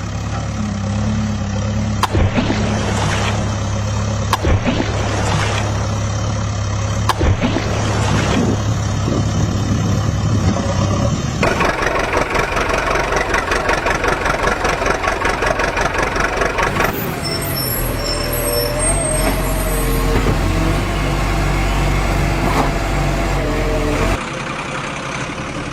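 Heavy diesel vehicle engines running, in several clips cut together: a steady low drone for the first half, then sudden changes to other engine sounds about halfway through and again later.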